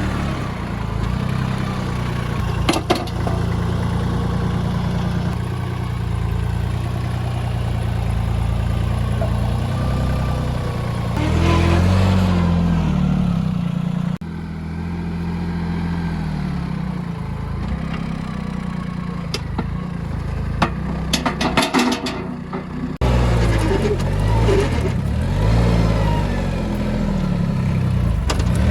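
Tractor engine running, its pitch rising and falling as it works, with sharp changes in the sound twice and a run of clicks and clatter a little past the middle.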